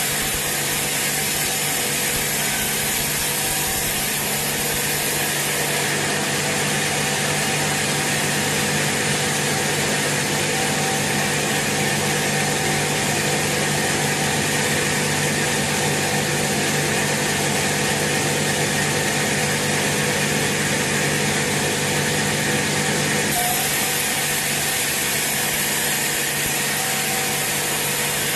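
Sawmill machinery running steadily while sawing teak logs: a constant mechanical hum under an even hiss, with no breaks or impacts.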